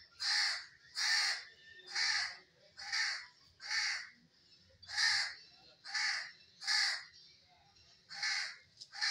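A bird giving harsh, caw-like calls over and over, about ten in a steady series roughly one a second, with a short pause near the end.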